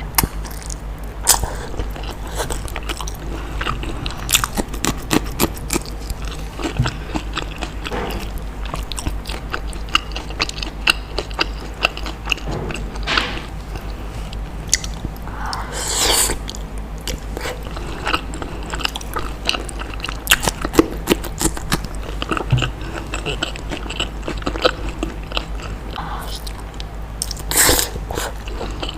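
Close-miked ASMR eating of balado eggs: steady chewing and biting with many small mouth clicks, and a few longer, louder mouth sounds near the middle and near the end.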